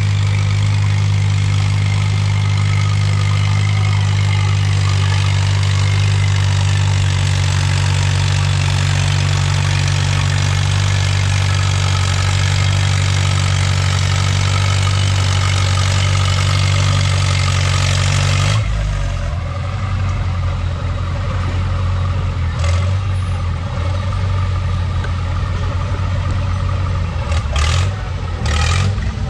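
Antique farm tractor engine running hard at a steady, constant RPM during a pull. About two-thirds of the way through it drops off abruptly to a lower, uneven running, with a few sharp knocks near the end.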